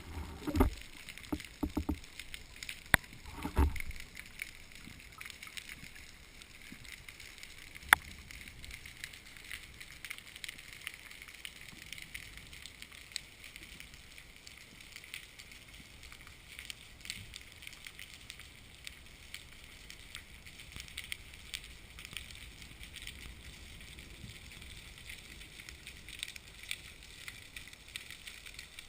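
Several knocks and clunks in the first few seconds and a single sharp click near the eighth second, over a steady faint outdoor hiss with small crackles and ticks that runs on unchanged.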